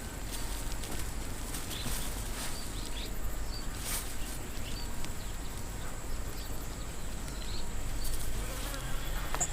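Insects chirring with a thin, steady high tone, with scattered faint clicks and short chirps.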